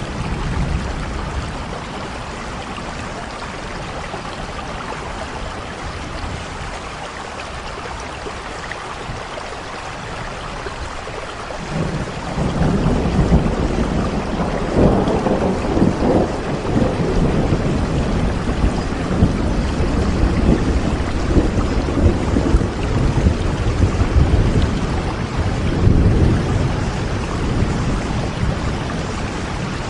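Steady rain falling, with thunder starting to rumble about twelve seconds in and rolling on in low, uneven swells.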